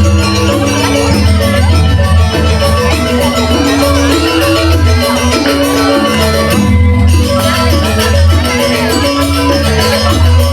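Balinese gamelan music accompanying a dance: bronze metallophones play interlocking melodic figures over a steady low gong and drum pulse, with the rattle of small cymbals.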